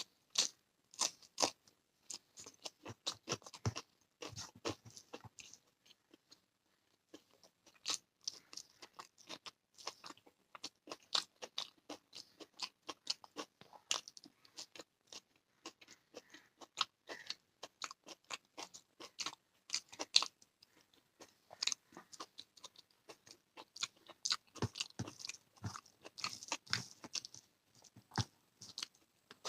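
Close-up eating sounds: chewing and crunching, with wet mouth clicks and smacks coming in quick irregular runs, and a short pause about six seconds in.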